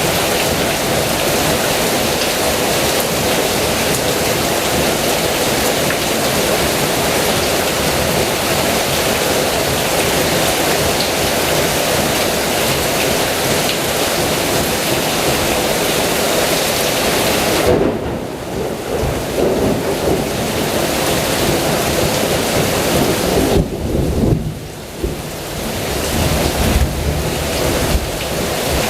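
Heavy rain pouring steadily. In the second half thunder rumbles low beneath it, while the hiss of the rain dips in places.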